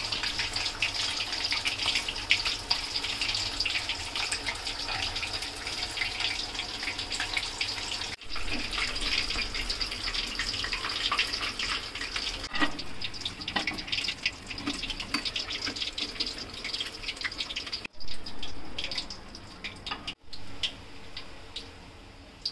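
Chicken pieces deep-frying in hot oil: a steady sizzle with many fine crackles, quieter in the last few seconds.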